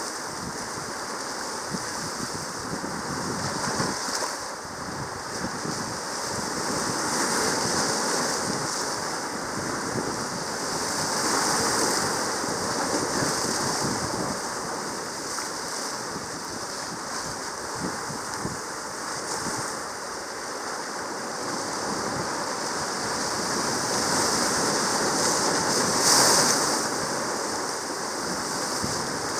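Sea waves washing in on a reef, a steady surf that swells louder every few seconds, loudest near the end.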